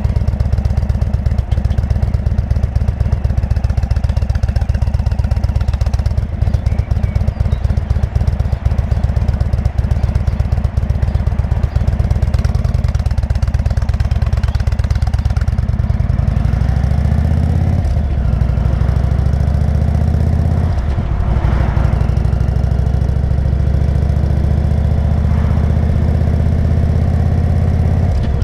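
Indian motorcycle's V-twin engine running on the move. It runs low and steady at first, then its pitch rises from about 16 seconds in, dips briefly near 21 seconds as at a gear change, and climbs again.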